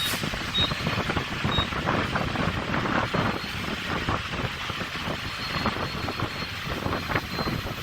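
Steady rumble of idling truck engines at a fuel island, roughened by wind buffeting the microphone. Two short, high beeps from the fuel pump's keypad come about half a second and a second and a half in, as numbers are keyed in.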